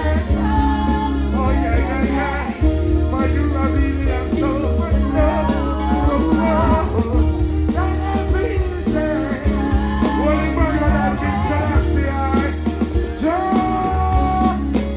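Live reggae band music with a heavy, steady bass line, held keyboard or guitar notes and a voice singing over it.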